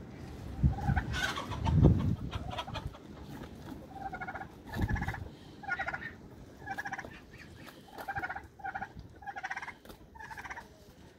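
Farm poultry calling, a run of short fluttering calls coming roughly once a second in the second half. A few dull low thumps come in the first two seconds and again near the middle.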